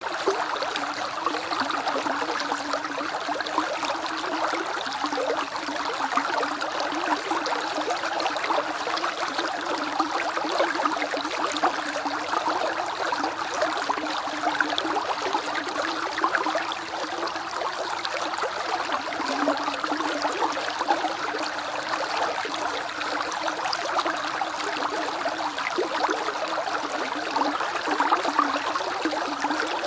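Small creek flowing and bubbling steadily over stones, a continuous babble of trickling, gurgling water.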